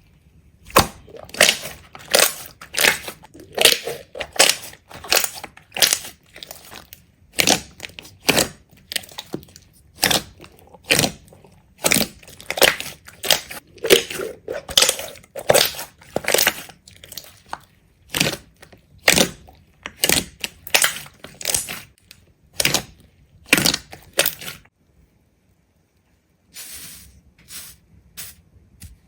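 A long series of short crunching or crushing noises, one or two a second, that stop for about two seconds near the end and then start again more faintly.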